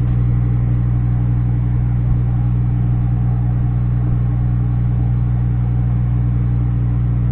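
Microwave oven running with a steady, unbroken low electrical hum.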